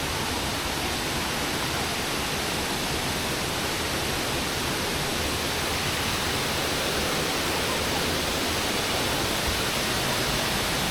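A steady rushing noise that does not change in level, with no separate events in it.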